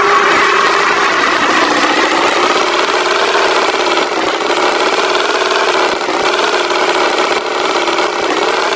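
Cartoon tractor engine sound effect, running steadily at idle.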